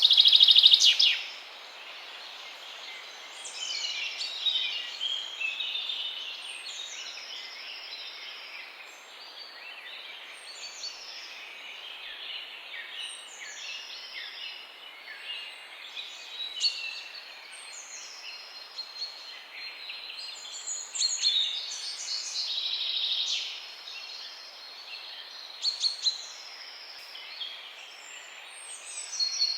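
Several songbirds singing and chirping together, with short repeated whistled phrases over a faint background hiss and a loud burst of chirping in the first second.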